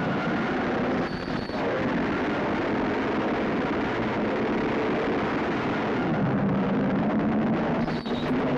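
Old sedan's engine on a film soundtrack, running as a dense, steady rumble, with short dips about a second in and again near the end.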